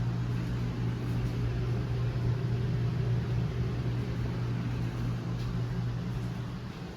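Steady low machine hum with a faint hiss, a little louder in the middle and easing off near the end.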